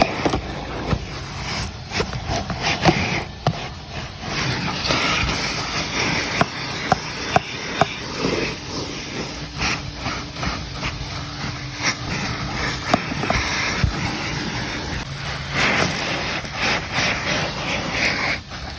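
Coin-operated car wash vacuum running steadily as it cleans a car's interior, with frequent sharp clicks and rattles through the suction noise.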